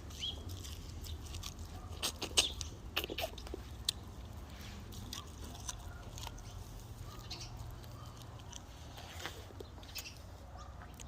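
A person gnawing and chewing boiled corn on the cob: scattered wet clicks and crunches of bites and chewing, loudest in a cluster about two to three seconds in, over a faint steady hum.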